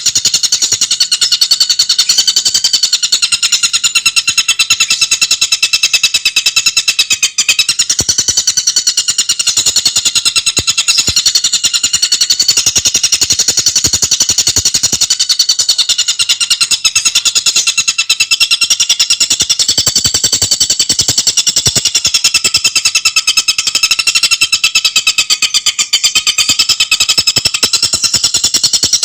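Tengkek buto (collared kingfisher) giving a loud, fast, unbroken chattering call, its rapid notes running together, with the pitch dipping and rising slightly.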